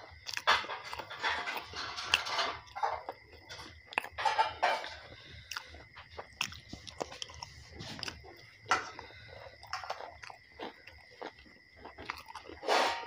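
Close-up chewing of roti with aloo bharta (mashed roasted potato), in irregular mouthfuls with short clicks, and a louder burst near the end.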